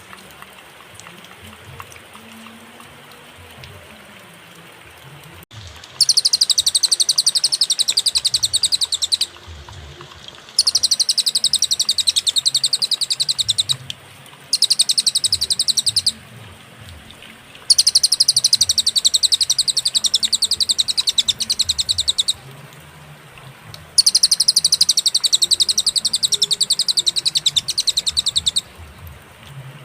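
Pygmy tit (cililin) singing: five bouts of rapid, high-pitched trilling chatter, each lasting a few seconds, separated by short pauses, over a faint low hum.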